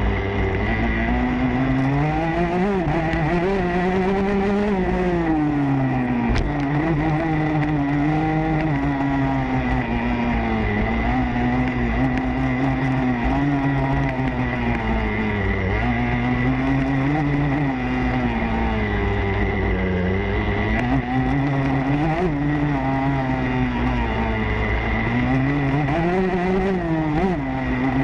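Motocross bike engine heard on board, revving up and down as the throttle is opened and shut, its pitch rising and falling every few seconds.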